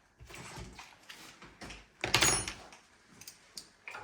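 Hand-fitting the seatpost clamp's small metal nut and wedge into a bicycle frame: soft scraping and small clicks, with one louder metallic clatter about two seconds in.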